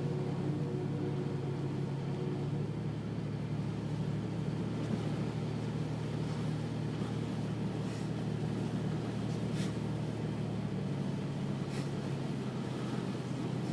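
Steady low hum of a running vehicle engine under an even rushing noise, with a few faint clicks in the second half.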